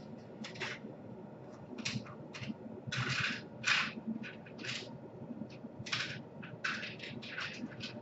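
Irregular short clicks and scrapes of small parts being handled, about fifteen in all, a few of them longer rubbing noises.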